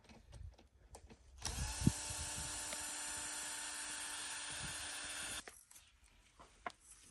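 A small electric motor runs at a steady speed for about four seconds, starting and stopping abruptly, with a few light knocks and clicks before and after.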